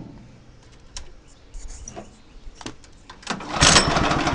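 A small gasoline engine being cranked to start, with a few light clicks of handling first; about three seconds in it turns over with a fast rattling chug that does not catch.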